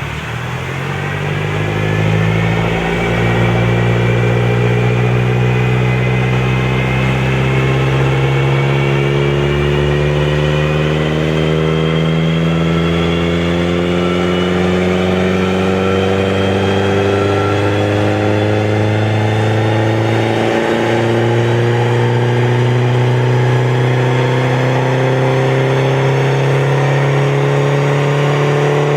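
Peugeot RCZ 1.6 THP turbocharged four-cylinder engine with a Supersprint full exhaust, pulling under load on a dyno: a loud, steady exhaust note whose pitch rises slowly and evenly as the revs climb through one long run.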